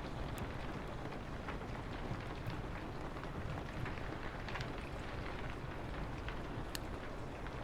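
Steady rain hiss over a low rumble, with a few sharp, scattered crackles of a wood fire.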